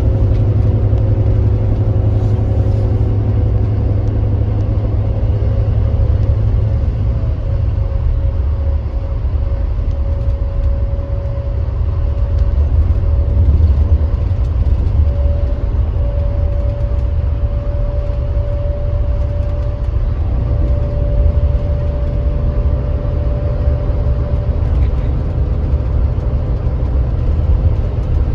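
Kia Granbird Sunshine coach's engine and drivetrain running at speed: a steady low rumble with a faint whine that rises slightly in pitch through the middle stretch.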